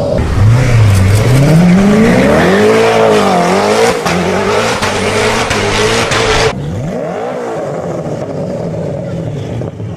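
A car engine revving hard through its exhaust, the pitch climbing and falling several times. About six and a half seconds in, the sound cuts abruptly to a quieter car engine that briefly revs up and down.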